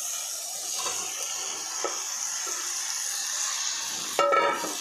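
Tomato-onion masala sizzling steadily in an oiled wok as boiled potato cubes are tipped in from a steel bowl, with a few soft knocks as they land. A brief ringing metal clank comes about four seconds in.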